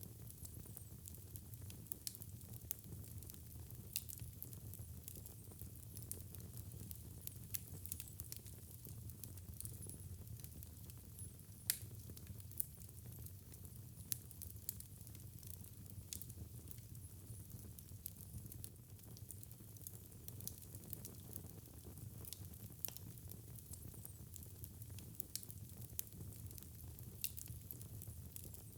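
Wood fire burning in a fireplace: a low steady rumble of flames with frequent irregular sharp crackles and pops, one louder pop about 12 seconds in.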